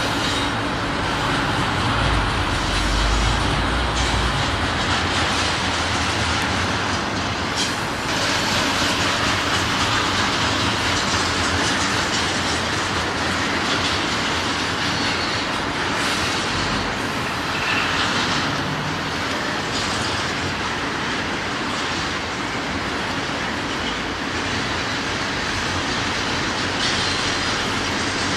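Long freight train rolling past: steady rumble and clatter of railcar wheels on the rails, heaviest in the lowest tones for the first few seconds.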